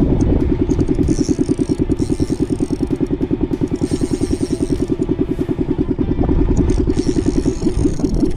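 Boat engine running steadily with a fast, even throb.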